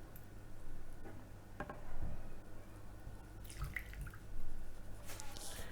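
Soy sauce being poured from a measuring cup, trickling and dripping faintly, with a few light knocks.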